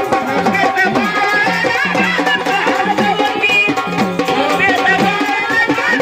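Gondhal devotional folk music: a winding, ornamented melody over steady, rapid sambal drumming.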